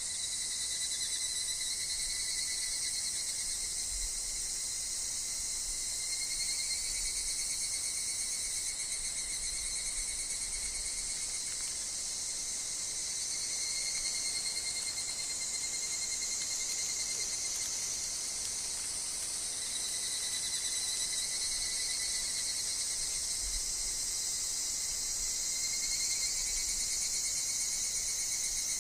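Higurashi (evening cicadas) calling in a steady, high-pitched chorus, with overlapping phrases of a few seconds each swelling and fading.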